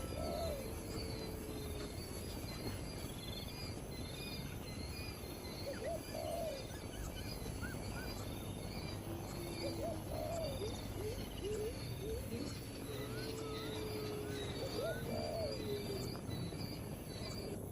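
Wild birds calling: a low hooting call repeated about every four to five seconds, with scattered higher chirps. Steady high insect chirping runs underneath.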